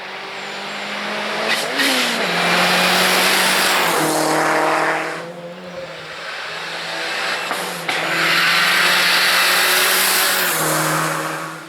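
Race car engine at full throttle on a hillclimb course, changing gear several times. The sound swells loud twice, with a quieter dip in the middle.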